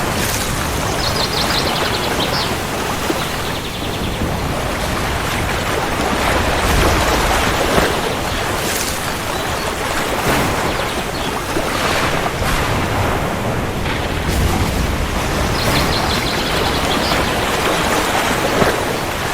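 Steady heavy rain, with low thunder rumbling up twice.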